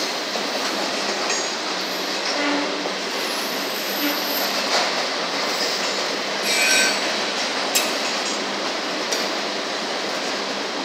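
Autorack freight cars of a CSX train rolling past: a steady noise of wheels on rail, with a brief wheel squeal about seven seconds in.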